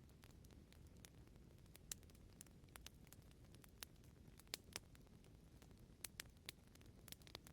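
Fireplace fire crackling faintly: irregular sharp pops and snaps over a soft, low rumble, with a few louder snaps about two and four and a half seconds in.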